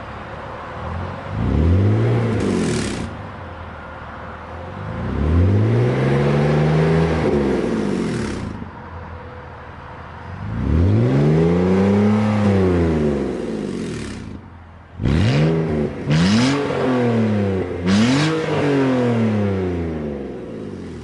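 BMW 330i engine revved with its resonator and muffler cut out, running through a chopped-off exhaust pipe. Three long revs rise and fall in pitch, then three short, sharp blips near the end.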